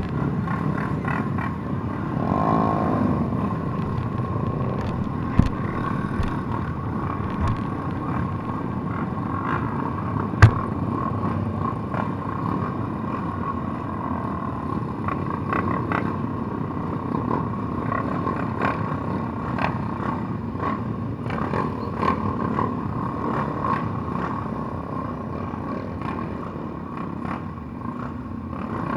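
150cc motorcycle engine running steadily, with rattling clicks throughout and a sharp knock about ten seconds in.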